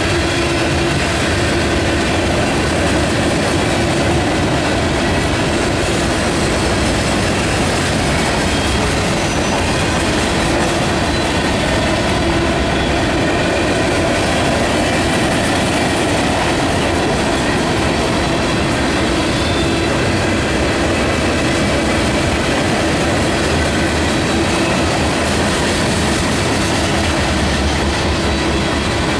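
Cars of a mixed freight train rolling past, a steady loud rumble of steel wheels on the rails.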